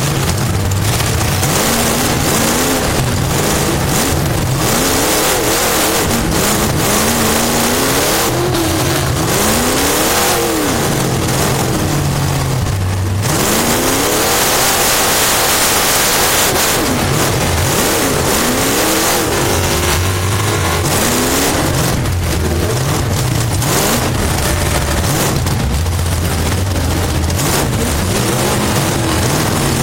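Race car engine heard from inside the cockpit, running hard under a constant roar. The pitch repeatedly rises and falls as the throttle comes off and back on through the corners.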